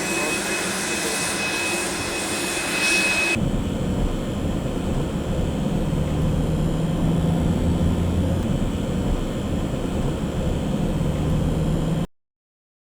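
Embraer Phenom 300 turbofan jet engines running: a steady high whine over rushing noise, then, after a cut about a quarter of the way in, a lower steady rumble with a hum. The sound stops abruptly near the end.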